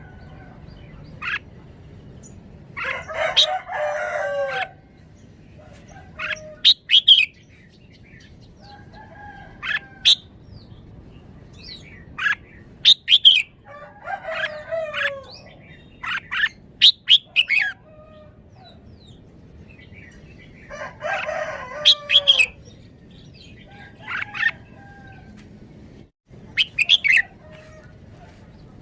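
Red-whiskered bulbul singing short, sharp whistled phrases again and again, every couple of seconds. A rooster crows twice behind it, once near the start and once about three-quarters of the way through.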